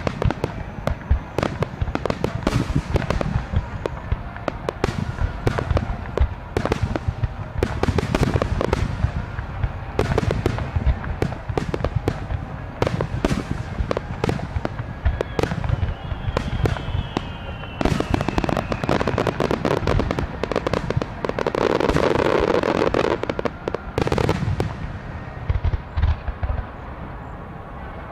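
A dense barrage of aerial firework shells bursting: rapid overlapping booms and sharp cracks with echoing rumble, building to a loud thick cluster of crackle a little past the middle, then thinning out near the end.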